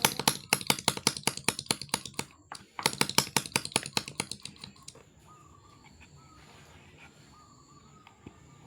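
Homemade two-stroke engine built from a refrigerator compressor, firing in rapid clicking pops at about ten a second in two short runs, then stopping about halfway through.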